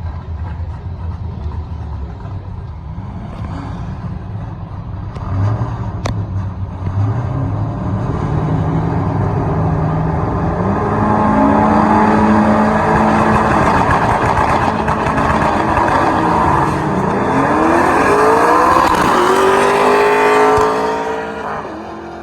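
Drag-race pass between a pickup truck and a Toyota MR2: engines rumble, then run hard at full throttle, their pitch climbing in steps through gear shifts. The sound falls away near the end.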